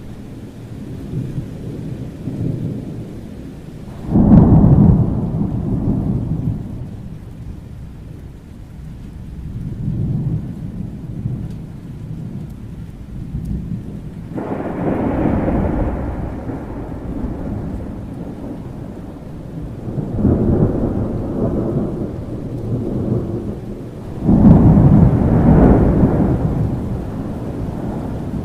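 Thunderstorm: steady rain under repeated rolls of thunder. Four peals break in suddenly and rumble away over several seconds each, the loudest a few seconds in and near the end.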